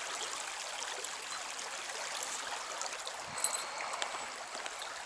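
Steady rushing and babbling of a flowing stream, even throughout, with a few faint ticks about three and a half seconds in.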